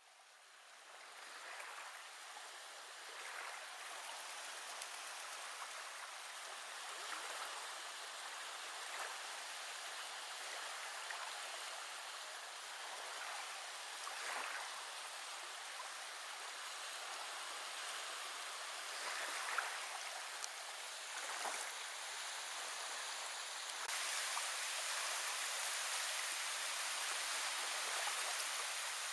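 Steady rushing of running water, growing louder and brighter about 24 seconds in, with a few faint brief sounds over it.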